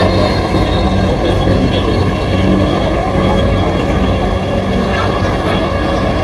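Dhaka Metro Rail (MRT Line 6) train running, heard from inside the carriage: a steady rumble of running noise with a low, even hum.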